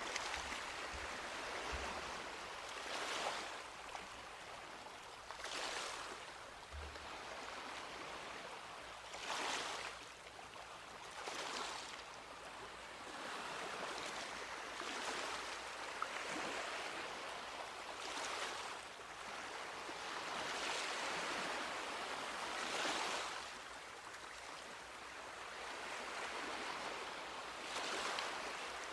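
Small sea waves breaking and washing up on a beach, each wash swelling and fading every two to four seconds over a steady hiss of surf.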